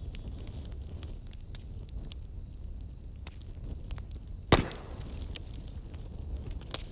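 Wood fire burning in a fireplace: a low steady rumble with scattered small crackles, and one loud sharp pop about four and a half seconds in.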